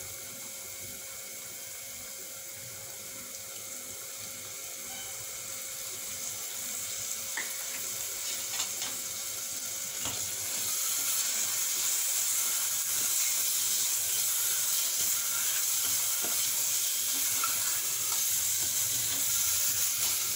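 Onion-tomato masala sizzling in oil in a pressure cooker, with ginger-garlic paste just added, as a spatula stirs it. The sizzle grows louder about halfway through, with a few light clicks of the spatula against the pot.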